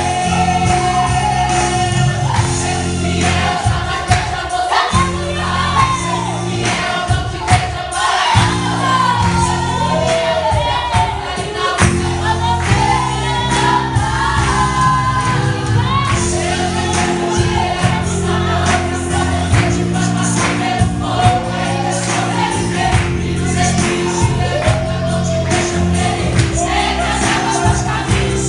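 Worship song: several voices singing together over live band accompaniment with a steady beat and held bass notes.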